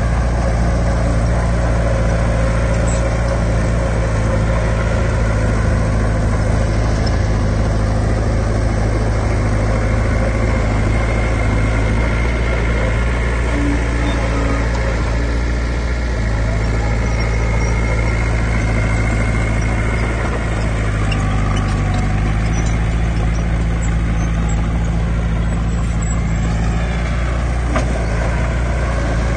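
Heavy diesel engine of earthmoving machinery running steadily, its pitch shifting briefly about two-thirds of the way through.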